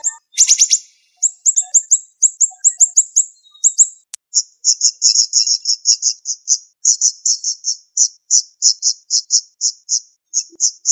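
A siri-siri bird singing sharp, high chirps in quick succession. After a brief gap about four seconds in, the chirps run on in a fast, dense series of about four or five a second.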